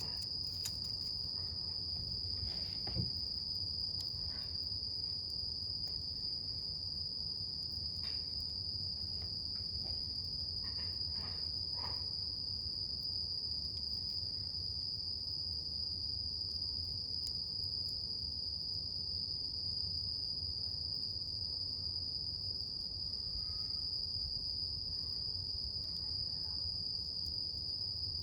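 Insects chirring in one steady high-pitched trill, over a wood campfire that gives a few scattered crackles and pops, the loudest about three seconds in.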